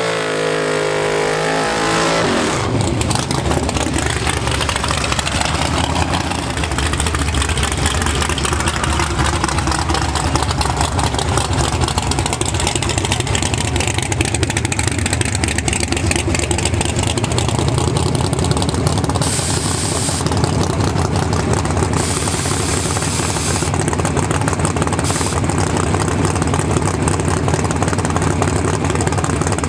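Drag-racing S10 pickup's engine running loud and steady, with a lumpy low rumble.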